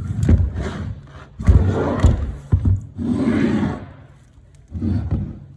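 Handling noise from a piece of aircraft hardware, likely the hydraulic pump unit, being moved about: a few rubbing and scraping bursts with two sharp knocks about two seconds in.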